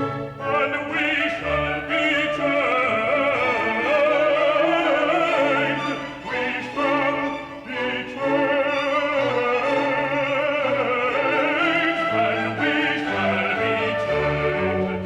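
Classical music: an operatic-style voice sings a melody with wide vibrato over orchestral or organ accompaniment, with two brief breaths in the phrasing.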